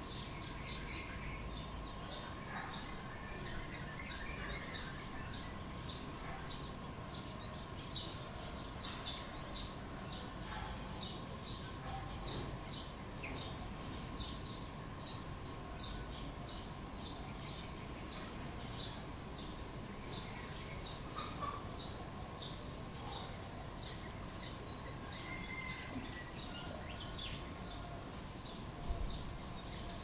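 Small bird giving a steady run of short, high chirps, about one or two a second, repeated evenly over a faint steady hum.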